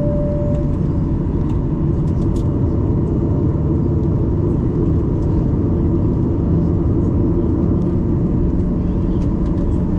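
Steady cabin rumble of a Boeing 737-800 with its CFM56 engines running while taxiing before takeoff: an even low drone whose hum steps up slightly in pitch about six and a half seconds in.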